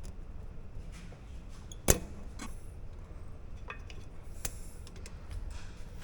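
A few light metallic clicks and clinks from steel brake-pad retaining clips and pliers being worked into a brake caliper. One sharp click about two seconds in is the loudest, with fainter ones after it.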